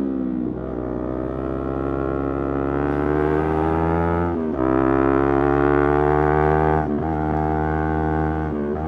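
Yamaha R3 parallel-twin motorcycle engine pulling under throttle while riding, its note climbing steadily and cut by brief dips as the rider shifts gears, four times.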